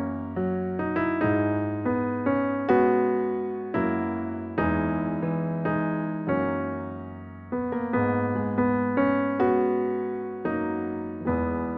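Solo electric piano music, slow notes and chords struck one after another and left to die away.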